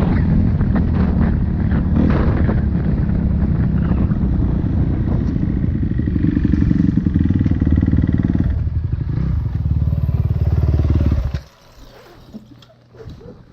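Dirt bike engine running hard under throttle, then the engine sound cuts off suddenly about eleven seconds in, leaving a faint low hum and a few small clatters.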